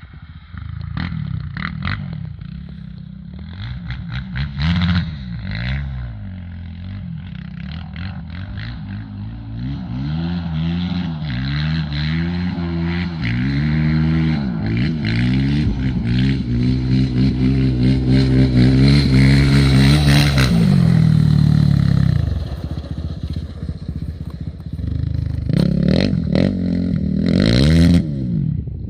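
Suzuki LTR450 quad's single-cylinder four-stroke engine through an FMF exhaust, revving up and down in quick surges, then held at high revs for several seconds. The revs drop away about two-thirds of the way through, followed by a few more sharp revs near the end.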